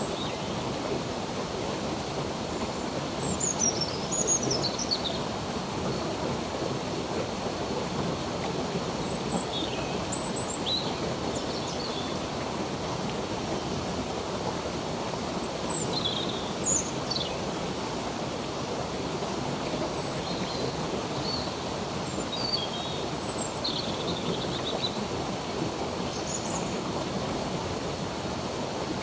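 Steady rushing of a flowing stream, with small birds chirping every few seconds in short high calls and quick falling notes.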